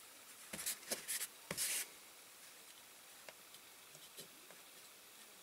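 Scraping and rubbing of small diecast model parts being handled and fitted together, in a cluster of short scrapes during the first two seconds, followed by a few faint clicks.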